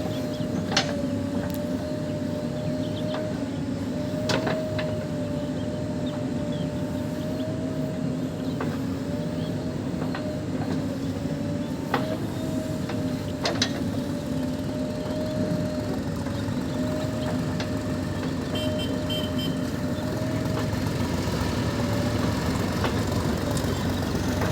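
Heavy diesel engines of a JCB 3DX backhoe loader and a tractor running steadily under work, with a constant whine over the drone. A few sharp knocks stand out, about a second in, around four seconds, and twice around twelve to fourteen seconds.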